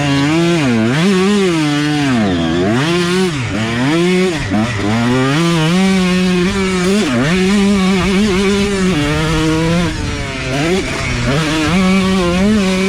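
Motocross dirt bike engine racing on track, its pitch climbing and dropping again and again as the throttle is opened and shut through the corners and shifts.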